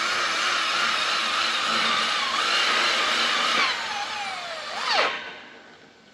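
A handheld electric power tool running at full speed under load. About four seconds in it is let off and winds down with a falling whine, is briefly triggered again just before the end, and then stops.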